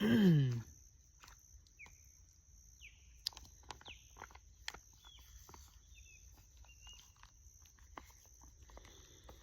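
Outdoor ambience: a short low voice-like sound falling in pitch right at the start, then scattered short high bird chirps and small clicks over a steady high-pitched tone.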